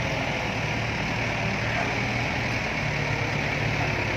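Dump truck's diesel engine running steadily at low revs.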